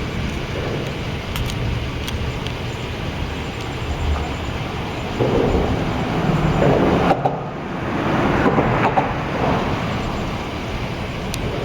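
Wind gusting against the microphone over a low rumble, swelling twice in the second half.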